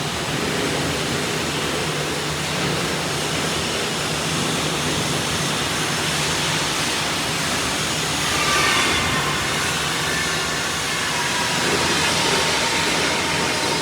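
Steady industrial noise from a steel welding line: an even hiss with a low hum underneath, swelling briefly about eight and a half seconds in.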